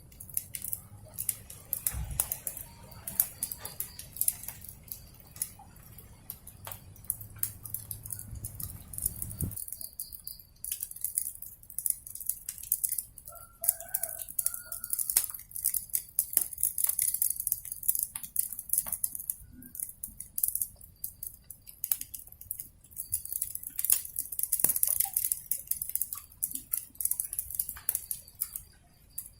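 Wood fire crackling with frequent sharp pops and snaps over a steady hiss. A low rumble stops abruptly about a third of the way in, and a faint bird call sounds briefly near the middle.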